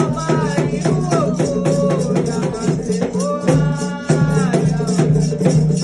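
Afro-Brazilian religious chant: voices singing over a rattle shaken in a fast, even rhythm, with drums underneath.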